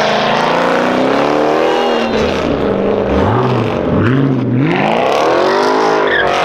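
Muscle car engine running and being revved, its pitch climbing and falling several times, with the biggest rev in the second half.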